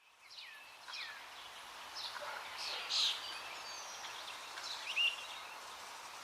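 Birds chirping faintly: scattered short calls over low background noise, the loudest about three seconds in and again about five seconds in.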